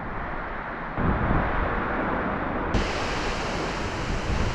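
Steady rushing of a waterfall. It gets louder about a second in and hissier a little before three seconds in.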